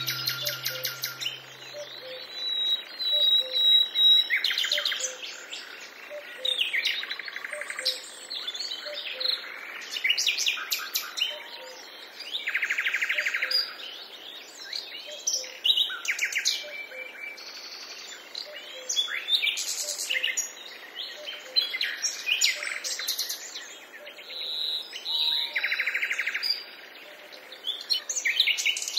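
Several wild birds calling and singing in a mountain forest: a busy mix of short chirps and trills, with a couple of buzzy calls lasting about a second and a half.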